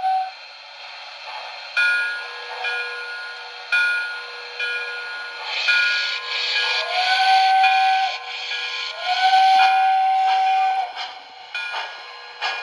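Onboard sound system of an MTH Premier Proto-Sounds 2 LIRR H10 O-scale model steam locomotive: slow steam chuffing with hiss. In the second half the whistle blows twice, each blast sliding up onto pitch and held for one to two seconds. All of it is thin and high, from the model's small speaker.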